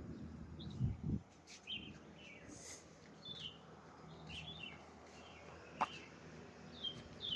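Faint, scattered chirps of small birds, with a single sharp knock about six seconds in.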